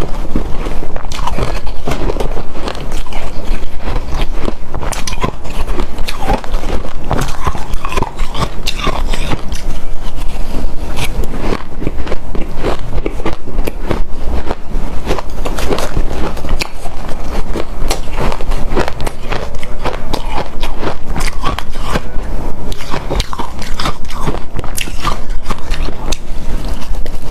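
Loud, continuous crunching of a mouth biting and chewing hard, snow-like powdered ice: a dense stream of small crackling clicks.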